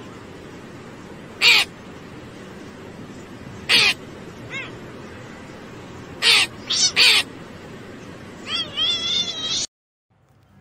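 A small black crow-family bird giving short, sharp calls, one at a time at first and then several in quick succession, with a faster, wavering run of calls near the end, over a steady background hiss.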